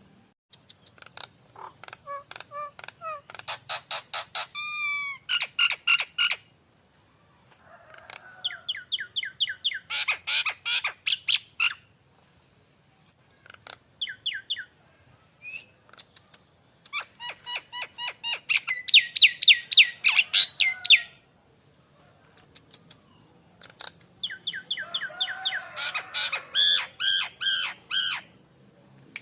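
Nias hill myna calling in bursts of rapid, repeated whistled and harsh notes, each burst a few seconds long with short pauses between.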